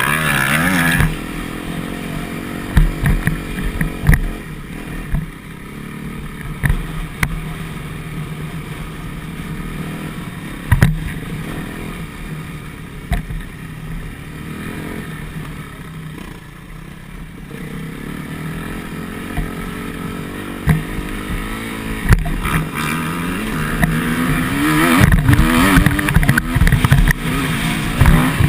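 Motocross bike engine running as it is ridden, its pitch rising and falling with the throttle, with sharp knocks now and then. It revs louder and higher near the end.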